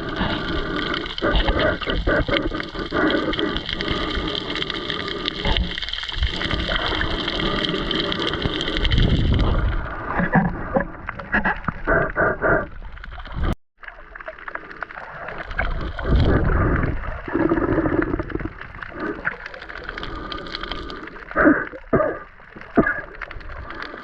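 Sea water gurgling and sloshing around a spearfisher's camera, with many short knocks and pulses. The sound cuts out completely for a moment about 13 seconds in, then resumes.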